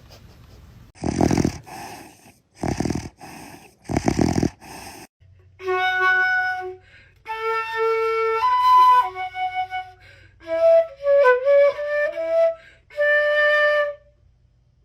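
Four loud, noisy bursts about a second apart, then a short melody of held, steady notes on a flute-like wind instrument.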